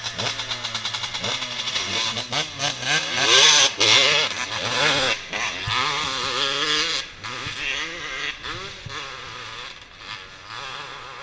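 Dirt bike engine revving, its pitch climbing and dropping repeatedly as it accelerates; loudest a few seconds in, then quieter after about seven seconds.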